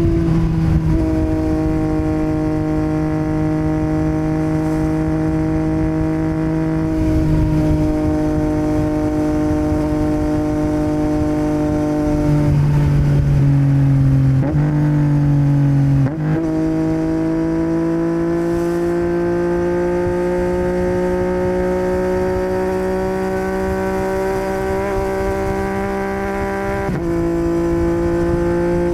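2021 Yamaha MT-09's 890 cc inline-three engine through a Yoshimura R77 carbon exhaust, running under way at moderate revs. The pitch steps several times with gear changes and throttle changes, climbs slowly through the middle, and drops near the end. There is a low wind rumble underneath.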